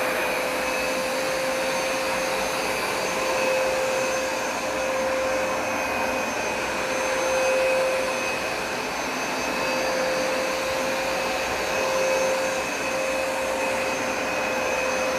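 Hoover Smartwash Pet carpet cleaner running: a steady motor whine with a constant high tone, swelling slightly in level every few seconds.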